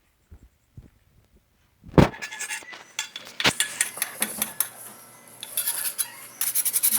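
Dishes and metal cutlery clinking and clattering: a loud knock about two seconds in, then a busy run of clinks that gets denser near the end.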